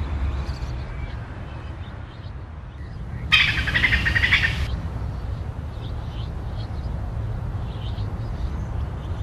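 Wild birds chirping in woodland, with a louder, rapid burst of bird song about three seconds in that lasts just over a second, over a steady low rumble.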